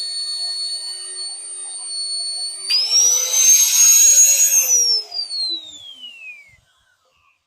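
Electric drill motor whining steadily while drilling half-inch steel plate. About three seconds in it speeds up with a harsh cutting rasp as the bit works the steel, then winds down in pitch and stops about six and a half seconds in.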